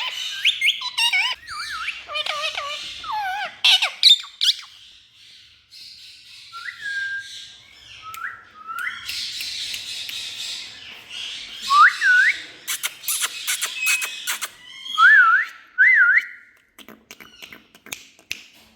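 Indian ringneck parakeet whistling and squawking: short rising and looping whistles mixed with harsh, screechy calls, with a quick run of sharp clicks near the end.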